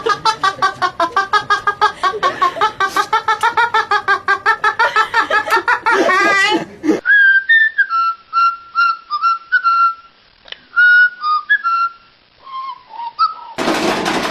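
A fast, rapidly pulsing pitched sound for about the first half. After a cut comes a run of short, clear whistled notes, mostly held at one pitch with a few stepping up and down, like a tune being whistled.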